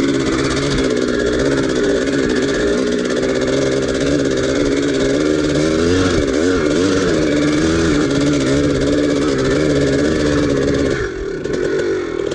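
1983 Maico 490's two-stroke single-cylinder engine running under load, its pitch wavering up and down with the throttle. About eleven seconds in, the sound changes abruptly to a quieter engine note.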